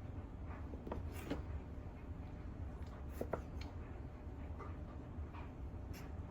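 Knife cutting on a cutting board: a few scattered, irregular taps and slicing sounds over a steady low hum.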